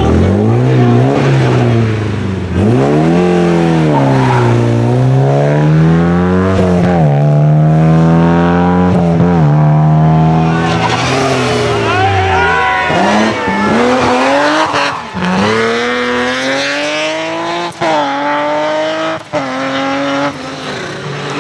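Rally car engine revved hard, its pitch swinging up and down for about twelve seconds. Then it accelerates through the gears, the revs climbing and dropping sharply at each of several gear changes.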